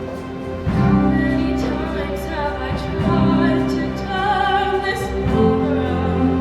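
Show choir singing with instrumental accompaniment; the music swells in about a second in.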